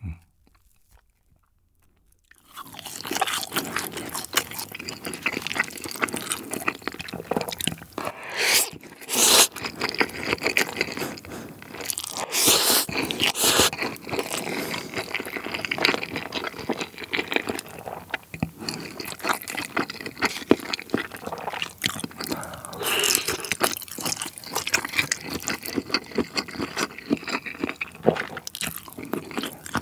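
Close-miked eating sounds: a fried cheese ball's crisp crust crunched and chewed, then mouthfuls of black-bean-sauce chapaghetti noodles chewed. It starts after a short hush about two and a half seconds in, with several louder crunches along the way.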